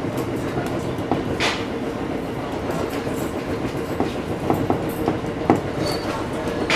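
Aoimori Railway electric train running at speed, heard from the driver's cab: a steady rumble of wheels and running gear with a faint constant hum, broken by scattered sharp clicks and knocks as the wheels pass over rail joints, the loudest about five and a half seconds in.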